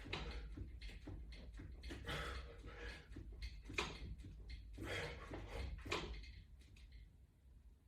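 A person breathing hard through exercise reps, with forceful exhales about every second or two, over small clicks and knocks from the workout equipment. It fades out near the end.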